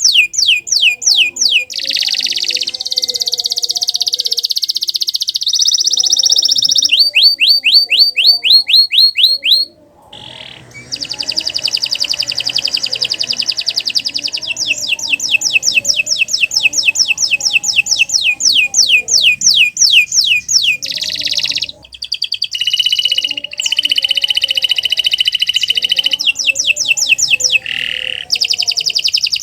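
Domestic canary singing a long, continuous song of rapidly repeated sweeping notes and buzzy rolls, changing phrase every few seconds, with a brief break about ten seconds in.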